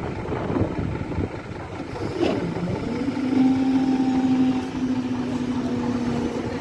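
8100 Class DART electric train running at a level crossing, with a single clack about two seconds in and a steady hum from about three seconds in.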